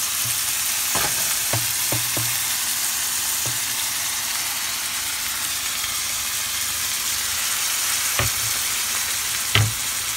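Diced tomato, onion and garlic sizzling in hot oil in a frying pan, a steady hiss. A few short knocks against the pan come as chopped roasted Anaheim chile is scraped in from a wooden board, the loudest near the end.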